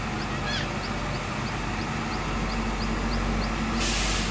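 Zoomlion bulldozer's diesel engine running steadily, with a brief hiss near the end.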